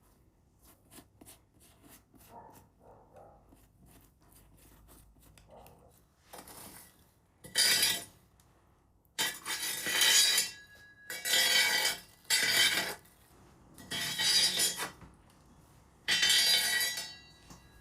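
A kitchen utensil scraping and clinking against a bowl in a run of short bursts, with faint taps at first; typical of egg being worked in a bowl for an egg wash on dough.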